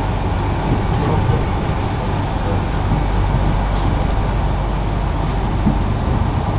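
Steady running noise of a moving passenger train, heard inside the carriage: an even low rumble of the wheels on the track.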